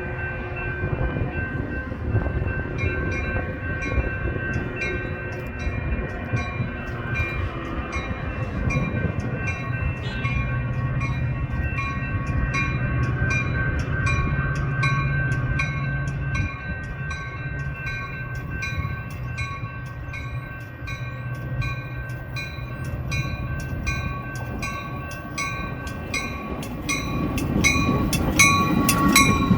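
A train going by on the rails, with a regular clicking that speeds up toward the end and a steady high ringing tone over the rumble.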